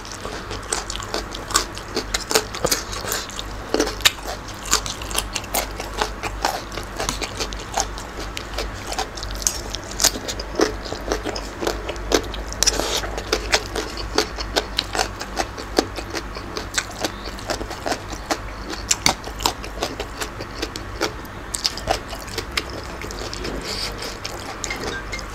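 Close-up chewing and crunching of mouthfuls of spicy Thai papaya salad with squid and raw vegetables: many quick, irregular crunches and wet mouth sounds, over a low steady hum.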